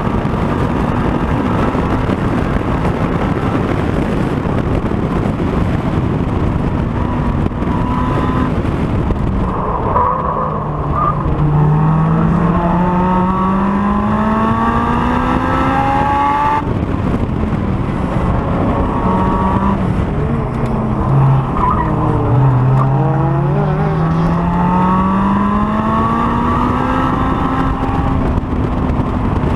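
Honda S2000's four-cylinder engine under hard track driving, heard over heavy wind and road noise. It slows twice for corners, then pulls up through the revs with a steadily rising pitch, with one sharp drop at a gear change about halfway through.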